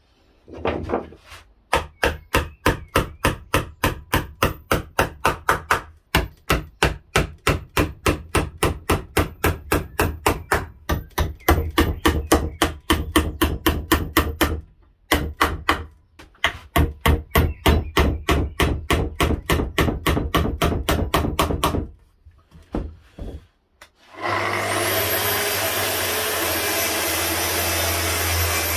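Rapid, regular hammer blows on wood, about three or four a second, in long runs broken by short pauses. Near the end a steady motor-driven power tool starts up and runs with a high whine.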